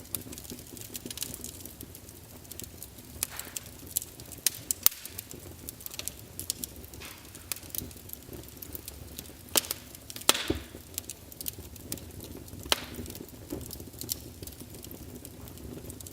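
Log fire in a fireplace crackling, with sharp pops scattered irregularly over a steady low rumble of the flames; a cluster of louder pops comes about ten seconds in.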